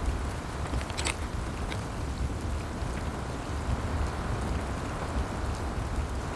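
Steady rain: a constant hiss over a low rumble, with a sharp click about a second in and a few fainter ticks.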